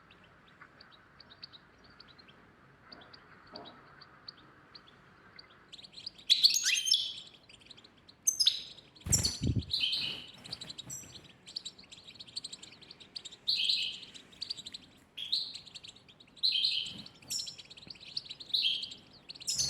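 Pet birds chirping: faint high chirps at first, then repeated loud, sharp chirps from about six seconds in. There is a low thud about nine seconds in.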